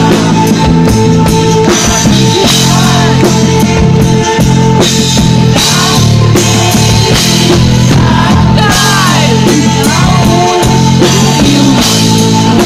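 Live rock band playing loudly: a drum kit over held instrumental chords, with a sung word near the start.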